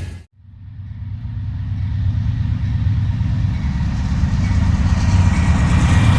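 Train noise cuts off abruptly just after the start, then the low rumble of a train's diesel locomotive engine comes in and grows steadily louder as the train approaches.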